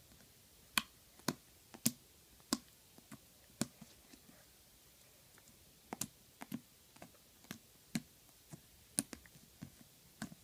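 Slime being squeezed and worked by hand, making small irregular popping clicks as trapped air bubbles burst.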